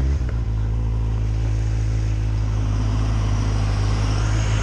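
Motorcycle engine running steadily at low revs while the bike rolls along, with a few short clicks about half a second in.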